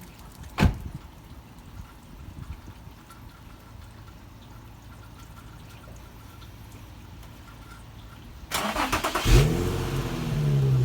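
A single sharp knock, then a quiet stretch. About eight and a half seconds in, a Nissan 350Z's 3.5-litre V6 is cranked by the starter, catches, revs up briefly and settles into a steady idle.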